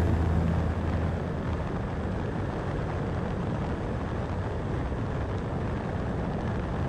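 Steady road and engine noise of a car cruising on a highway, an even rumble with no change in pitch.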